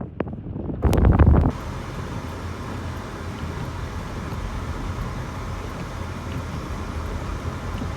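Blizzard wind gusting hard against the microphone, cut off suddenly about a second and a half in, then a steady low rushing noise.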